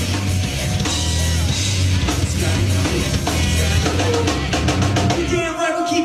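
Live rap-rock band playing an instrumental passage between rapped verses: drum kit with a heavy, sustained bass line. The low end drops out briefly near the end.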